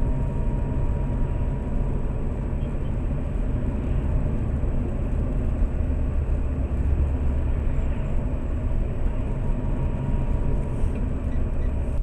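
Steady low rumble of a Lada Priora driving, with engine and road noise heard inside the cabin through a dashcam's microphone.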